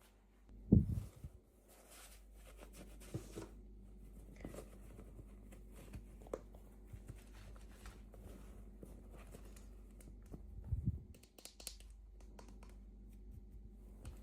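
Toy packaging handled up close: scattered light clicks and crinkles of plastic and paper, with two dull, low thumps, about a second in and near eleven seconds.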